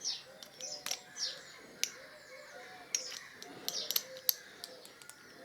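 Small birds chirping repeatedly, with several sharp clicks and taps from metal parts being handled, the loudest about two seconds in and again near four seconds.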